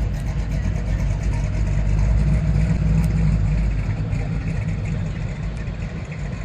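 Classic Chevy II Nova's engine and exhaust rumbling as the car pulls away. The rumble is loudest a couple of seconds in, then eases as the car moves off.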